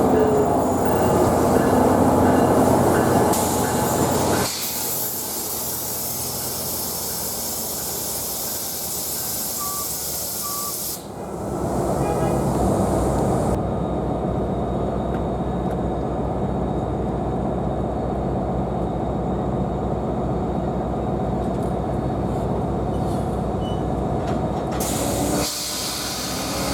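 NJ Transit commuter train running through a station: a steady rumble of wheels on rail and train machinery with a hiss, changing abruptly several times.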